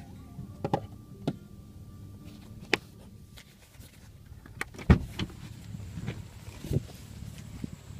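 Scattered sharp clicks and knocks over a low steady hum inside a truck, the loudest knock about five seconds in.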